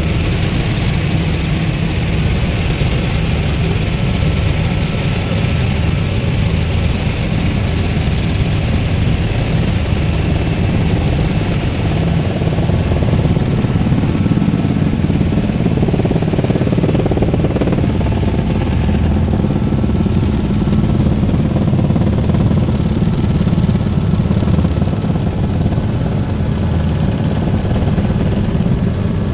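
Helicopter engine and rotor running steadily: a constant low drone with a thin, steady high whine above it.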